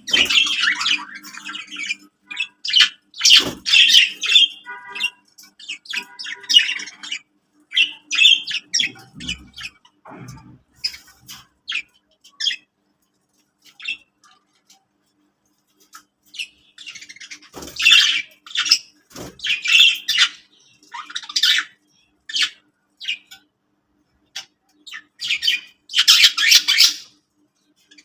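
Budgerigars chattering and squawking in irregular bursts, with a quieter spell about halfway through and a few soft low knocks among the calls.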